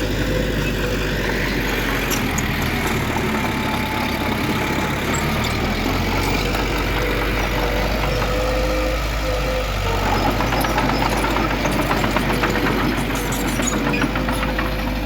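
Heavy diesel earthmoving machinery running steadily, with a thin steady whine over the engine drone. About ten seconds in, it gets a little louder and a dense rattle and clatter joins it.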